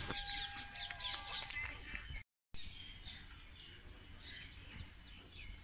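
Small birds chirping outdoors, many short quick calls overlapping. The sound breaks off for a moment a little over two seconds in, then the chirping resumes.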